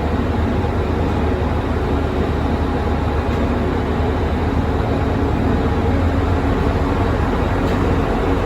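Steady mechanical drone of a car ferry's engines and machinery, a loud, even low hum with no breaks.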